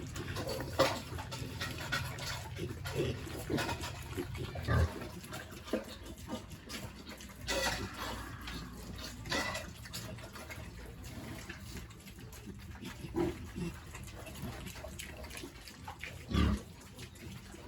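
Pigs grunting now and then, with scattered short knocks in between.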